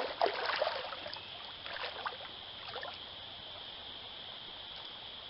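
Water splashing and sloshing in a shallow creek, in irregular bursts over the first three seconds, over a steady high drone of insects that carries on alone afterwards.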